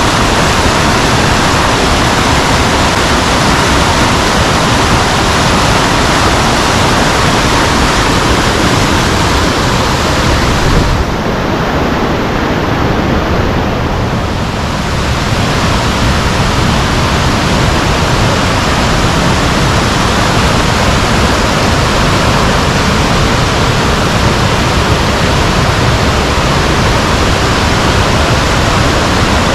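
Lozoya River rushing loudly and steadily over rocks. About eleven seconds in it turns briefly duller and a little quieter for a few seconds, then returns.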